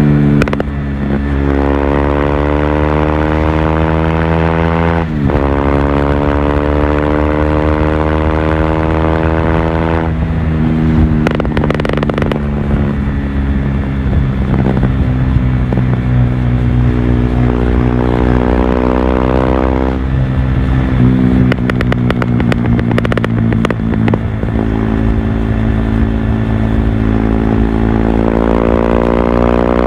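Stage II-tuned KTM RC 390's single-cylinder four-stroke engine under way, revving up through the gears: the pitch climbs, drops sharply at each upshift, and holds steady while cruising. Short stretches of sharp crackling come between the pulls.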